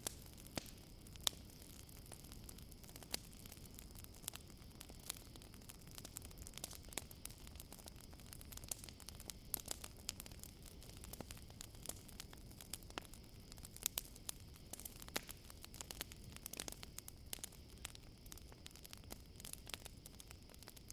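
Campfire crackling, with many irregular sharp pops and snaps over a low steady rustle, and crickets trilling steadily in the background.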